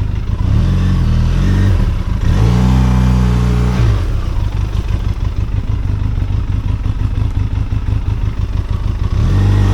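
Benelli TRK 502X's parallel-twin engine running at low revs and being revved up in bursts: twice in the first four seconds and again near the end.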